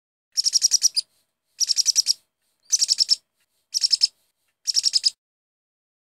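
Bird chirping: five short bursts of rapid, high chirps, each about half a second long and spaced about a second apart.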